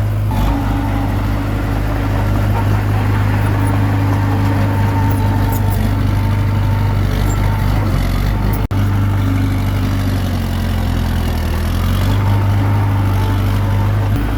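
Komatsu D21P bulldozer's diesel engine running steadily, dipping a little in pitch about eight seconds in and then recovering, with a momentary break in the sound just before that.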